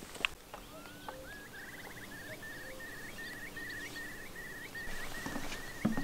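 A bird singing. It gives a couple of rising whistles and a short trill, then a long run of quick, evenly repeated notes, about three a second. A few footsteps sound near the start and toward the end.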